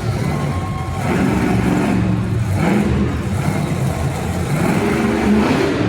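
Motor vehicle engine revving hard, its pitch rising and falling, twice climbing to peaks, about two and a half seconds in and again near the end.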